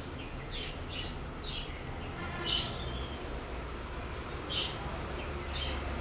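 A small bird chirping: about eight short, high chirps, each falling in pitch, at uneven intervals.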